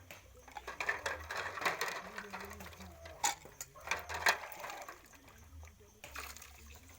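Dishes and utensils clinking and clattering irregularly as they are washed by hand.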